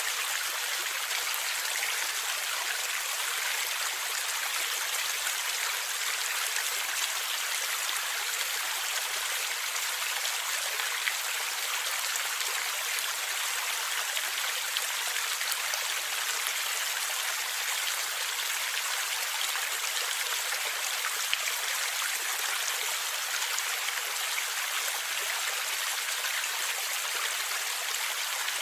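Stream water flowing and gurgling steadily over rocks, an even splashing hiss with fine droplet patter and no change in level.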